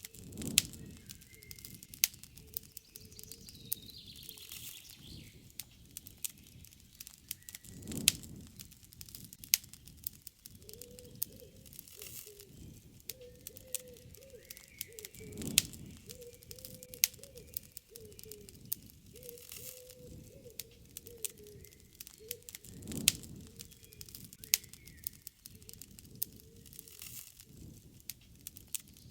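Campfire wood crackling with frequent sharp pops and a few soft swells of flame. Birds chirp faintly in the background.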